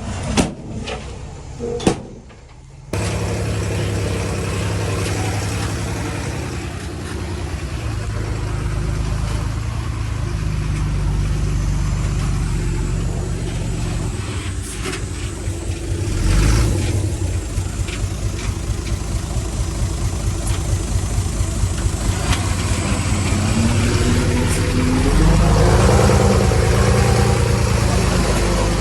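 Heavy diesel machinery engine running and working under load, with a steady low drone that swells about halfway through and again near the end. A few sharp knocks come in the first two seconds, followed by a brief drop in sound before the engine comes back in at about three seconds.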